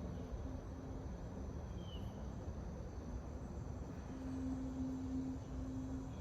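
Forest ambience with crickets and insects chirping steadily, one short falling chirp about two seconds in. A low steady hum grows louder for a second or so about four seconds in.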